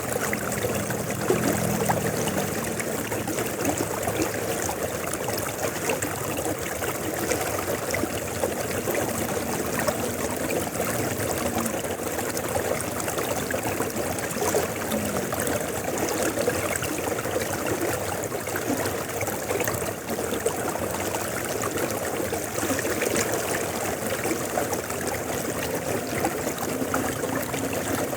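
A river flowing steadily, with water rushing and trickling. A faint low hum comes and goes near the start, around the middle and near the end.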